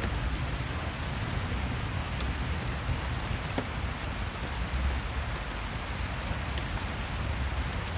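Rain and fireplace ambience: steady rain hiss with a low rumble underneath and a few faint ticks scattered through it.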